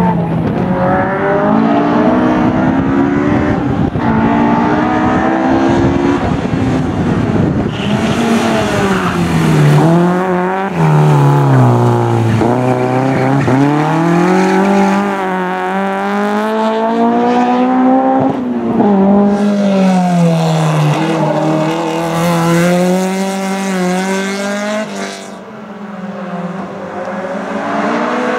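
BMW M3 E30 four-cylinder race engine pulling hard, its pitch climbing and dropping again and again as it revs up through the gears and comes off the throttle for corners. It dips briefly in loudness near the end.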